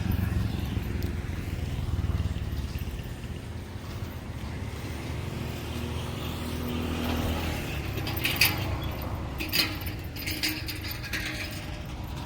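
Vehicle engine rumbling low and steady, easing off after about seven seconds, followed by several sharp clicks or knocks.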